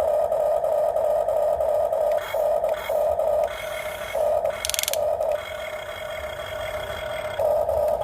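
Small electric gear motors of a radio-controlled toy construction machine whining in short bursts, starting and stopping repeatedly as the controls are worked. A brief scraping rattle comes about halfway through.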